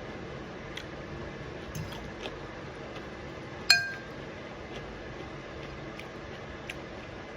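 Cutlery tapping and scraping lightly on a plate during a meal, a few soft clicks, with one sharp ringing clink about three and a half seconds in.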